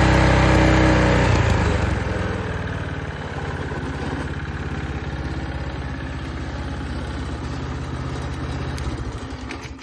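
Earthquake 16-inch rear tine rototiller's gas engine running fast, then throttled down about a second in to a steady lower idle. Near the end the engine dies away.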